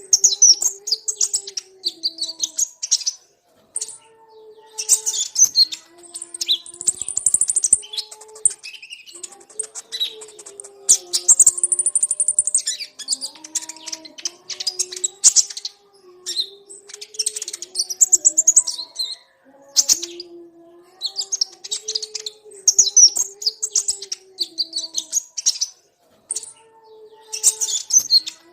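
Brown-throated sunbirds (kolibri ninja) chirping and twittering in rapid high bursts a second or two long, broken by short pauses, over a faint low wavering tone.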